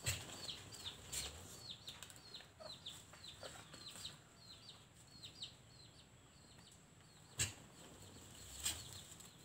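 Birds peeping in a steady run of short, high, falling chirps, about three a second. Two short, sharp sounds stand out, about two-thirds through and near the end.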